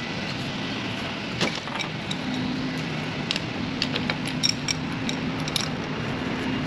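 Scattered metallic clicks and clinks of hand-tool work over a steady machine hum; a low steady tone joins the hum about two seconds in.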